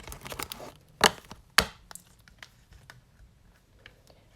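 Trading cards being handled and set down on a tabletop: a series of short taps and clicks, the two loudest knocks about a second and a second and a half in, then only faint clicks.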